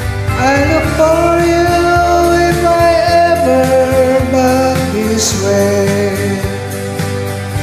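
A solo voice singing long held notes over a guitar-led karaoke backing track, with the backing continuing after the voice stops near the end.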